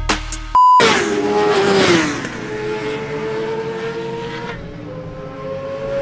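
Racing motorcycle engine running on a circuit, its note falling in pitch about a second or two in, then holding steady and slowly rising. A short electronic beep sounds about half a second in.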